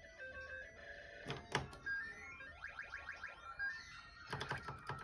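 Electronic mahjong gaming machine sound effects: short beeping tones, two sharp clicks about a second and a half in, then a quick run of rising chime notes, and a burst of rapid clicks near the end.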